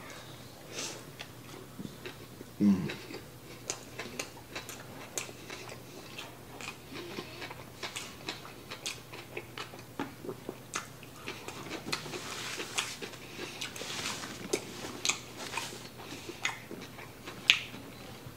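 Close-up chewing of a bite of cheeseburger: wet mouth clicks and small crunches, many short ticks scattered throughout, with one brief louder low sound about three seconds in.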